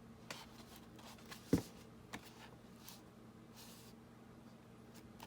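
Paper sheets being handled and lined up on a tabletop: faint rustling and light clicks, with one sharper knock about a second and a half in.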